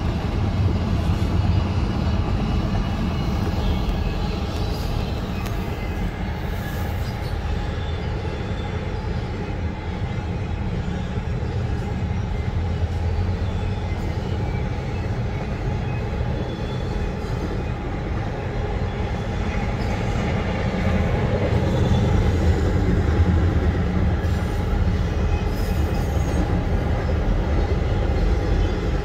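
Freight train rolling past a level crossing: a steady low rumble of its cars going by, heard from inside a car's cabin. It grows slightly louder a little past two-thirds of the way through.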